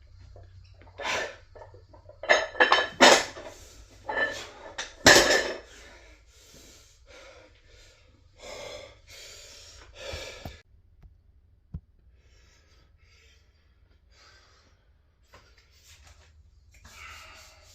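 A person breathing hard from the effort of a weightlifting set: a run of loud, forceful breaths in and out that die away after about ten seconds, with one sharp click a little later.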